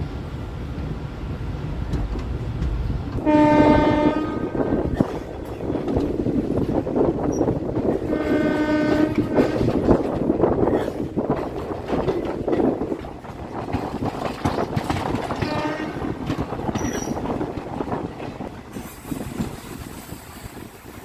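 Train running on the rails with a continuous rumble and wheel clatter, while the locomotive horn sounds three times: two blasts of about a second and a half, then a fainter third.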